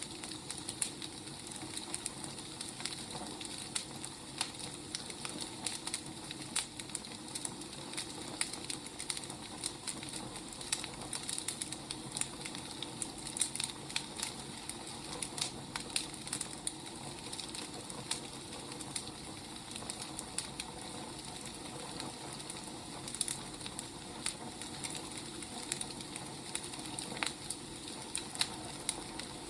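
Firewood burning: a steady hiss with frequent, irregular sharp crackles and pops.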